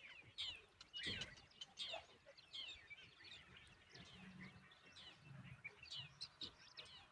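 Faint bird chirping: a dense run of short, high chirps, each sweeping downward, several a second. A soft low thump about a second in.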